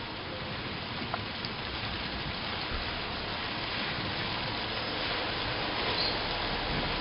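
Heavy rain falling during a thunderstorm: a steady, even hiss that grows slightly louder, with a few faint drop ticks.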